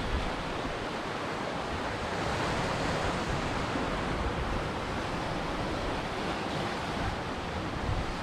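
Ocean waves breaking on a shore: a continuous wash of surf that swells a little about two seconds in.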